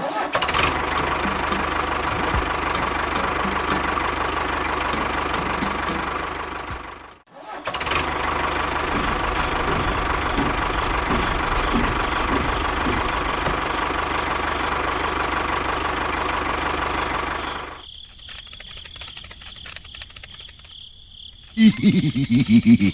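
A small motor running steadily with a whirring drone. It stops for a moment about seven seconds in, starts again, and cuts out about three-quarters of the way through. A short, loud pitched burst follows near the end.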